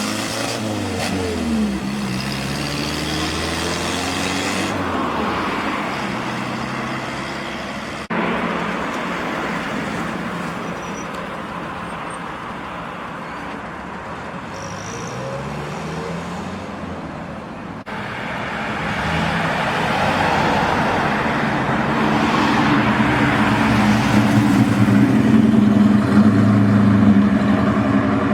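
Classic car engines driving off one after another, pulling away with rising and falling revs. The sound changes abruptly twice, and in the last third one engine running close by grows louder and holds a steady note.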